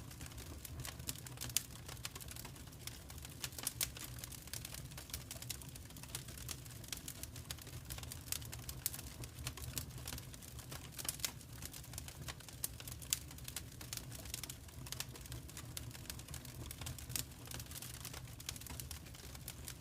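Fireplace fire crackling: a steady run of irregular small pops and snaps over a low, constant rumble.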